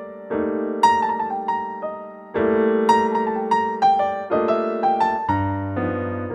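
Background music: electric piano playing a slow, gentle melody over held chords, with a new chord struck about every two seconds.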